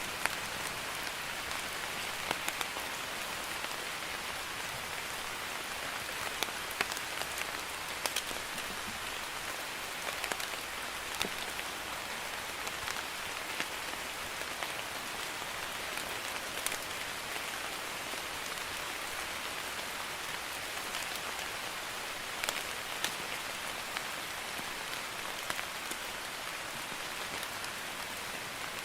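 Drizzle falling steadily: an even hiss of light rain with scattered individual drops ticking throughout.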